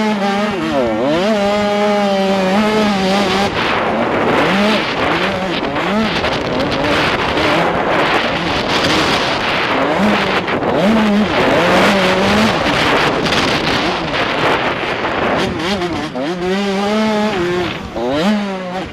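Two-stroke 85cc motocross bike engine being ridden hard, its pitch rising and falling again and again as the throttle opens and closes, heard from the rider's helmet camera with a constant rush of wind and noise.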